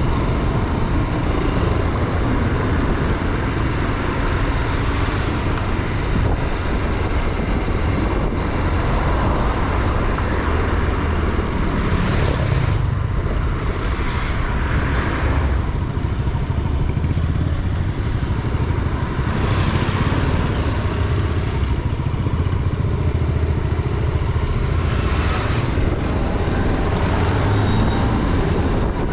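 Motorcycle on the move: a steady engine rumble mixed with heavy wind noise on the microphone, with a few louder hissing swells along the way.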